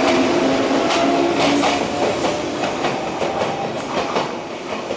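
JNR 115-series electric trains on the rails: wheels clacking over rail joints at irregular intervals over a steady running rumble. A motor hum from the departing train fades out in the first second or two.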